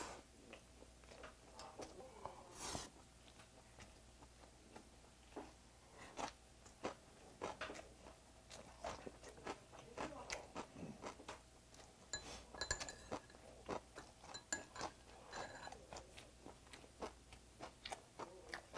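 Soft, irregular close-miked chewing and biting of braised semi-dried pollack (kodari jorim), with a few light clicks of a spoon and chopsticks against the pot.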